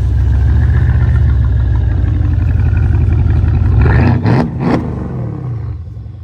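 A car engine running loud and close by, its pitch shifting about four seconds in with two sharp knocks, then dropping off near the end.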